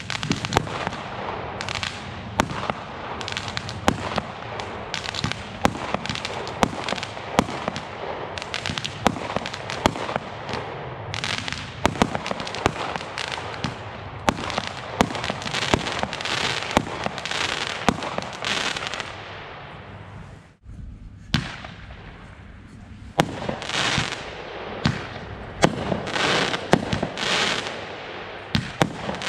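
Consumer fireworks batteries firing: a rapid run of shots and bangs with dense crackling. About twenty seconds in the sound breaks off briefly, then a fresh sequence of bangs and crackle begins.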